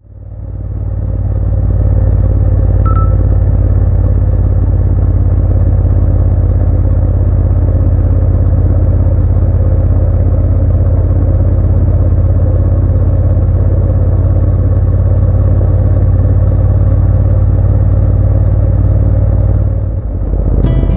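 Motorcycle engine running at a steady speed, fading in over the first two seconds, with a single click about three seconds in. A plucked guitar comes in at the very end.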